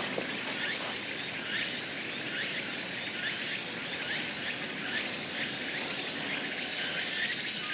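A steady chorus of summer insects, with short high chirps repeating through it.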